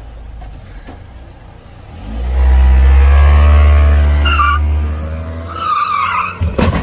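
A car engine revving loud from about two seconds in, with tyres squealing in two short, wavering squeals. There is a sharp noise just before the sound cuts off.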